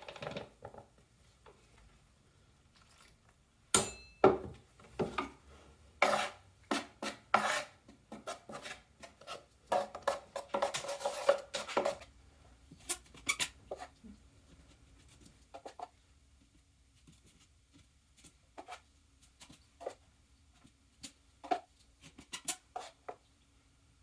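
Knife scraping and knocking against a mixing container as thin drywall patching compound is stirred and spread, in irregular clicks and taps with a longer scraping stretch partway through.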